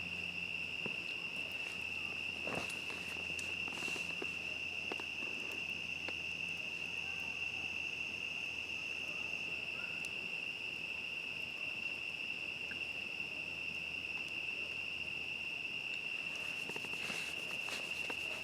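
Crickets calling in a steady, unbroken high-pitched trill, with scattered soft crackles and pops from the campfire, a small cluster a few seconds in and another near the end.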